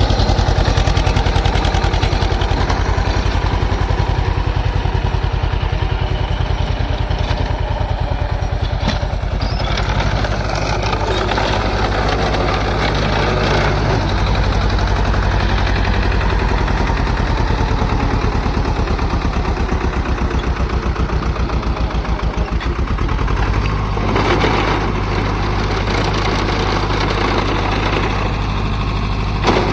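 Swaraj 724 XM Orchard tractor's two-cylinder diesel engine running steadily with a loud, even low beat. About 22 seconds in the firing slows for a moment, then picks back up.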